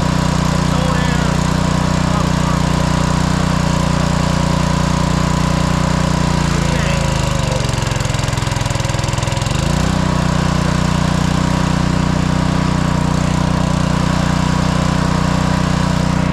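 Gas pressure washer engine running steadily. About six seconds in, it bogs down and drops in pitch for around three seconds, then picks back up to speed.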